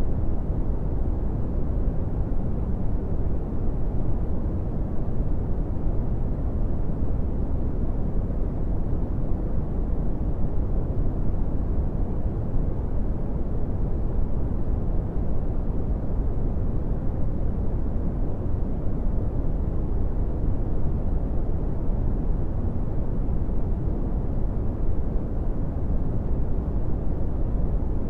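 Brown noise: a steady, deep rumbling hiss, strongest in the lows and fading toward the highs, with no change in level.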